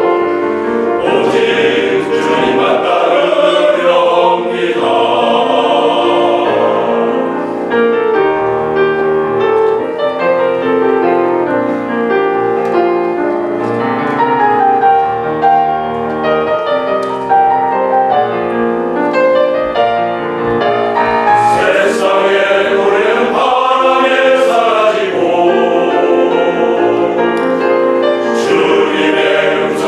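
Church elders' vocal ensemble singing a congratulatory sacred song in several parts, with held chords that change pitch throughout.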